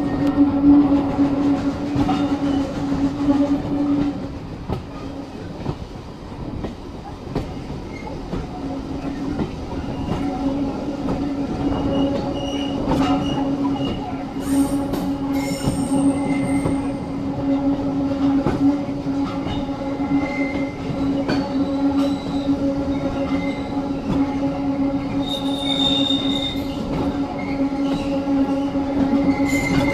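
Steam-hauled heritage passenger train running along the track, heard from an open carriage window: a continuous rumble of wheels on rails with a steady squealing tone from the wheels. The squeal fades for a few seconds about four seconds in, then comes back.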